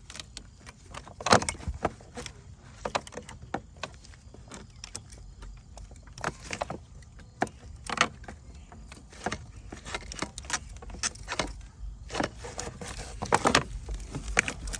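Irregular clicks, taps and rattles of pliers on hard plastic engine-bay parts as a vacuum line is worked loose, closer together near the end.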